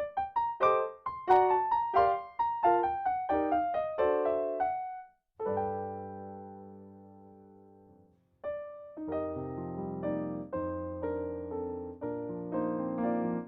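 Solo piano music. A run of quick notes leads into a held chord that slowly dies away near the middle, and after a brief pause the piano goes on with steady repeated chords.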